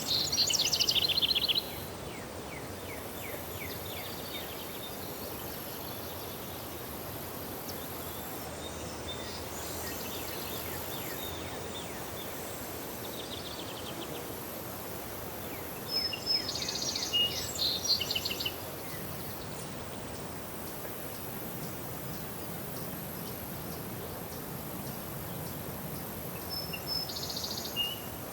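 A songbird singing the same short, complex phrase three times, roughly ten seconds apart: each starts with a clear high note and runs into a quick jumble of chirps. Fainter bird chirps come in between, over steady outdoor background noise with a constant high-pitched hiss.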